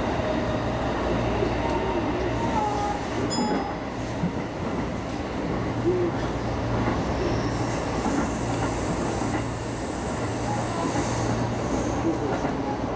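Electric commuter train running along the line, heard from on board: steady rumble of wheels on rail with a low motor hum. A thin high-pitched wheel squeal comes in about eight seconds in and lasts a few seconds.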